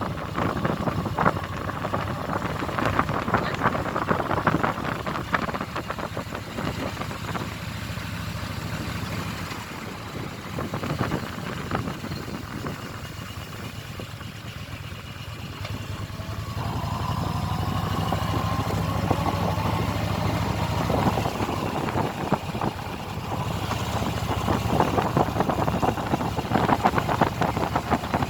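Motorcycle engine running while riding, easing off for a while and picking up again about halfway through.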